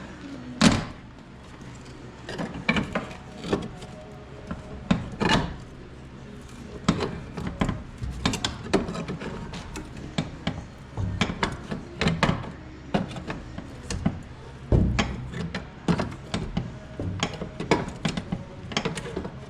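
Irregular metal knocks, clicks and clanks as the crumpled steel door of a Jeep Comanche is bent and worked back into shape by hand, with a sharp knock about half a second in and a heavier thud near the end.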